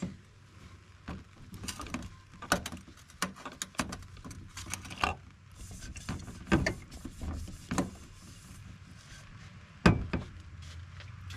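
A string of sharp clicks and knocks from small objects being handled, the loudest one near the end, over a low steady hum.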